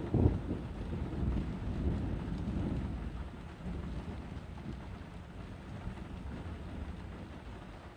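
Thunder from a nearby lightning strike: a loud crack right at the start, then a low rumble that slowly dies away, with rain falling.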